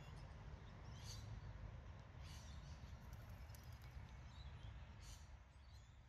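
Faint outdoor ambience: a low wind rumble with a few short, high bird chirps, fading out near the end.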